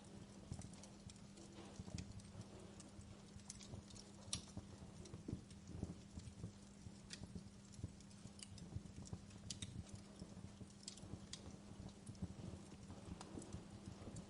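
Wood fire crackling in a fireplace: irregular sharp pops and snaps over a soft low rumble of burning, with a faint steady low hum underneath.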